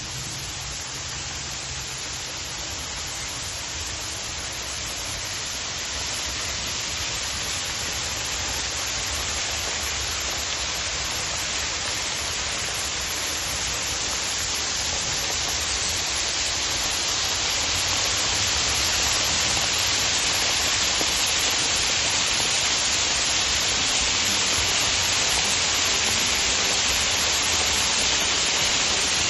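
Waterfall: a steady rush of falling water that grows gradually louder over the first twenty seconds or so, then holds steady.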